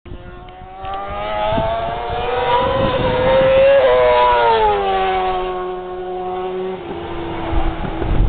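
Racing superbike at full throttle passing at top speed: its engine note climbs to a peak about four seconds in, then drops in pitch as it goes past. A lower engine note runs alongside it and stops just before seven seconds.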